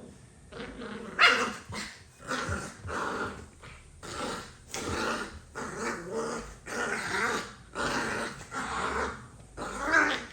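Maltipoo puppies play-growling and barking at each other in short bursts, about one a second, with the loudest yaps about a second in and near the end.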